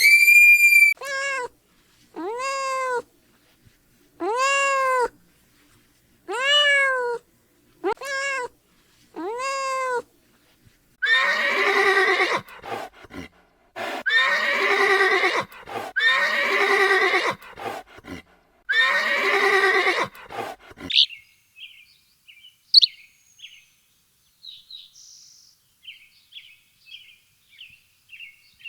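A series of pitched animal calls: about six short calls that rise and fall in pitch, then four or five longer, fuller calls, followed by faint short bird chirps in the last several seconds.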